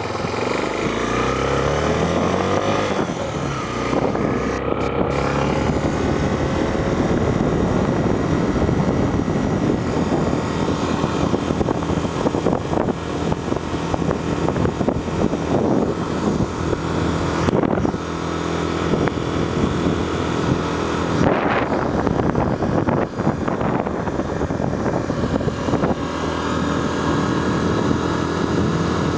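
Honda Tornado 250 motorcycle riding on the road, its single-cylinder engine rising in pitch as it accelerates over the first few seconds, then running steadily at cruising speed.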